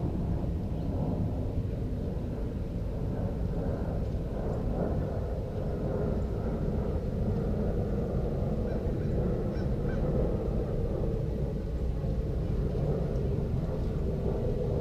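Faint bird calls over a steady low rumble.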